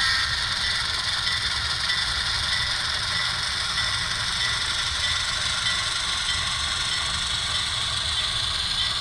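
HO scale model 44-tonner diesel locomotive running steadily as it backs a cut of cars, a constant diesel engine sound with light rail rattle.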